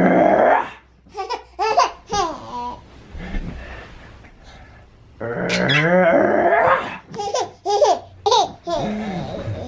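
Laughter and playful vocal noises: a baby laughing and babbling with an adult, with two long drawn-out calls of about a second each, one at the start and one about five seconds in.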